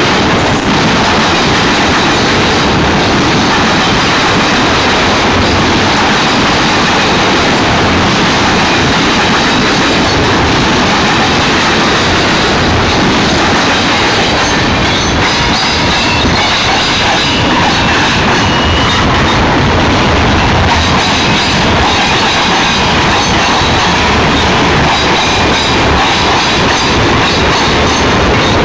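Union Pacific freight cars rolling past close by with a loud, steady rumble and clickety-clack of wheels over the rails. Thin high wheel squeals come and go around the middle.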